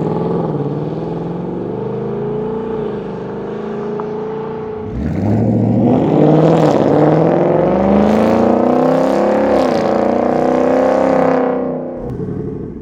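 Ford Mustang GT V8 exhaust as the engine is revved, the pitch rising and falling. About five seconds in, the sound breaks off and a louder stretch of revving follows, which falls away near the end.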